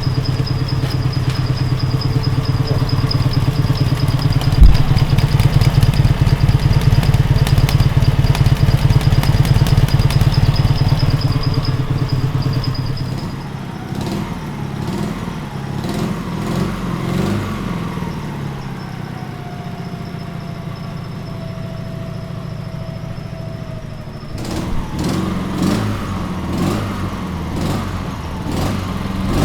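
MT motorcycle's boxer-twin engine idling on LPG with the petrol supply shut off, its exhaust pulsing evenly, with a single sharp knock about four seconds in. About thirteen seconds in the running gets quieter and less even, with some clattering near the end.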